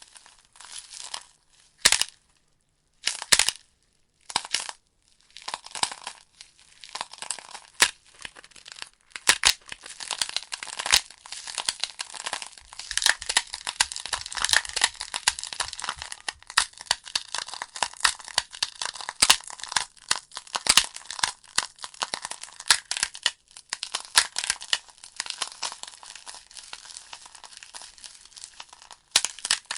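Wood logs burning in a fireplace, crackling with many sharp pops and snaps. The pops come sparsely with short silences between them at first, then thicken into steady, dense crackling from about nine seconds in.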